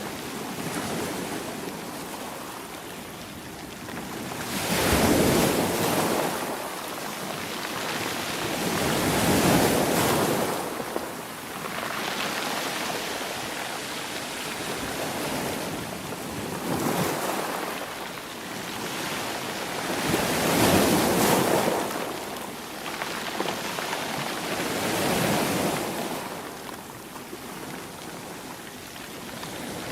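Sea waves breaking and washing onto the shore, with a swell about every four to five seconds.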